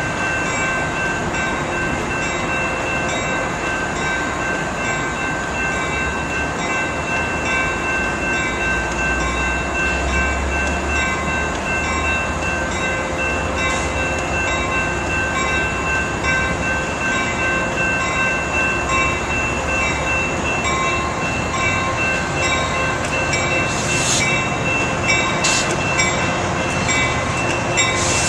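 Coaster commuter train pulling out of the station, pushed by its diesel locomotive, with steady high-pitched tones over the running train. The low engine rumble grows stronger about a third of the way in as the train accelerates.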